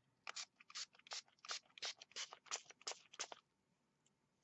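Fern-green acrylic paint being worked onto a plant by hand: about ten short, scratchy strokes, roughly three a second, that stop about three and a half seconds in.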